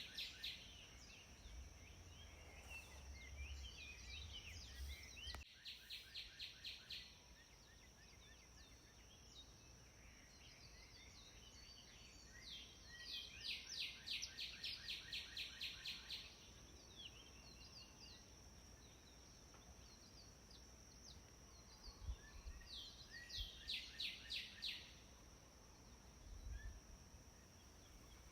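Birds singing in the open: one bird repeats a quick trill of even, rapid notes three times, each bout lasting a few seconds, with scattered short chirps from others between. A steady high-pitched hiss runs underneath.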